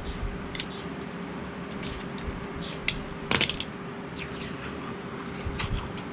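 Masking tape being peeled off a freshly painted metal vise: scattered crackles and small clicks, with one longer tearing rasp about three and a half seconds in. A steady low hum runs underneath.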